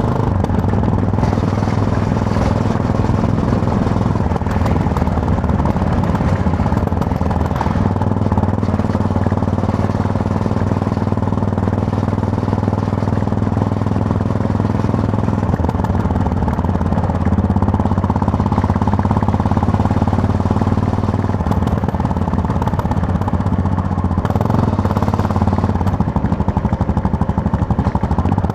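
Yamaha MT-03 motorcycle engine running steadily under way, heard from the rider's position. Its note steps up and down a few times as the revs change.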